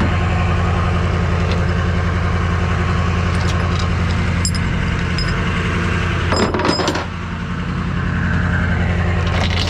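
Rollback tow truck's engine idling steadily, with scattered metallic clinks and a couple of louder clanks about six and a half seconds in and near the end.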